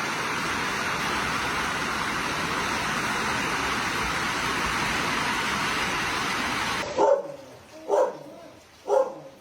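A steady rushing noise with no distinct events, which stops abruptly about seven seconds in. A dog then barks three times, about a second apart.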